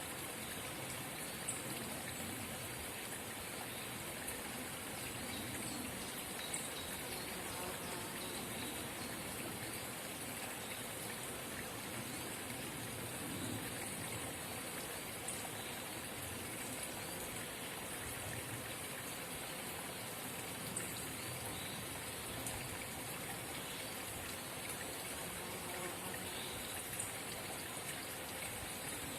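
A forest spring babbling steadily, with a brief sharp tick now and then.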